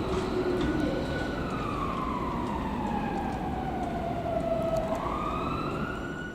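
Emergency vehicle siren wailing, its pitch falling slowly and then rising again near the end, over a steady background rumble.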